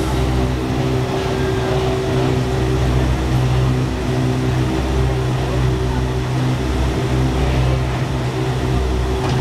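Touring car engine idling steadily in the pit lane, a low, even drone.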